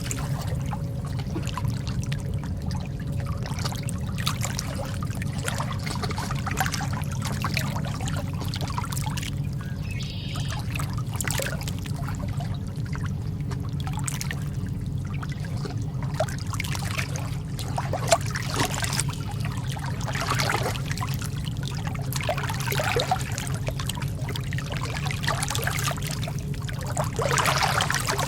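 Lake water lapping and splashing against the shore in small irregular waves, over a steady low rumble.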